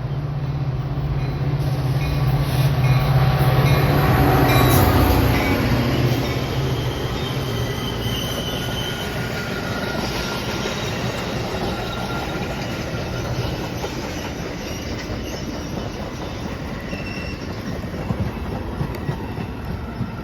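A train passing close by: a low engine hum is loudest a few seconds in, then the cars roll past with steady wheel rumble, clatter and short high wheel squeals.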